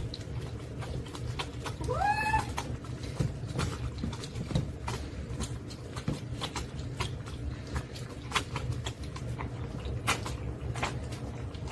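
A kitten meows once, about two seconds in, a short call that rises and then holds; scattered light clicks and a low steady hum run underneath.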